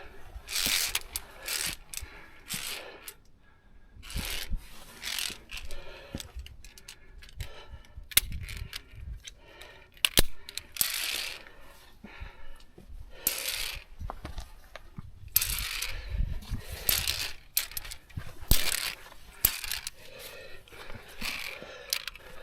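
Via ferrata gear in use: metal carabiners clinking and scraping against the steel safety cable and rock in irregular clicks and rasps.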